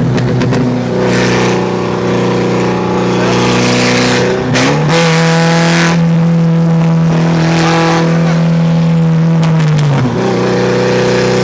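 Car engine running steadily under way, heard from inside the car. About four and a half seconds in, its pitch dips and then climbs to a higher, louder drone that holds until it falls away near the end.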